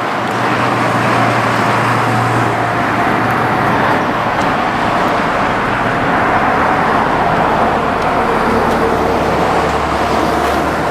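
Road traffic passing: a steady wash of tyre noise with low engine hum from passing vehicles.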